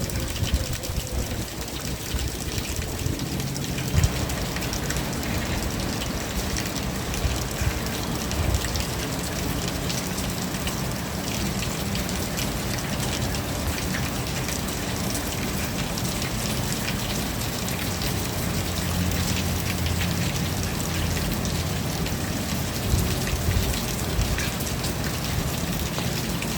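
Steady rain falling and pattering on surfaces, with scattered louder single drops landing now and then.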